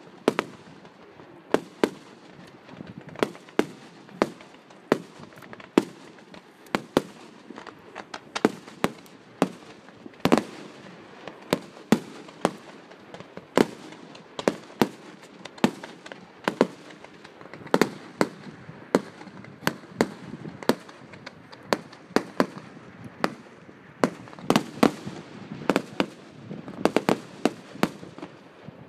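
Fireworks going off as a string of sharp bangs, one or two a second, each trailing off briefly. The bangs come faster near the end.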